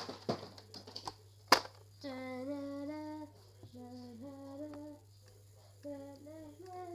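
A Nerf blaster fires once with a sharp snap about a second and a half in, then a child hums a wordless tune in held notes, in three short phrases.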